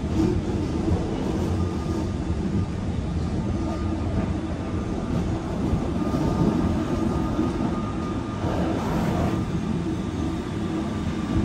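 Wengernalp Railway rack train running, heard from inside the carriage: a steady low rumble of wheels and traction motors.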